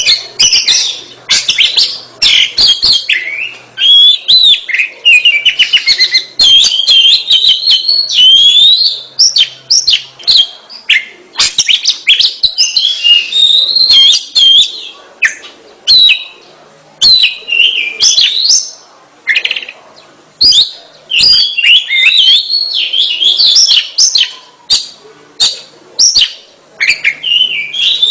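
Oriental magpie-robin (kacer) singing loudly and without letup, in the full, frequent song that fanciers call gacor. Its phrases are quick and varied, made of high whistles, trills and chirps, broken by short pauses.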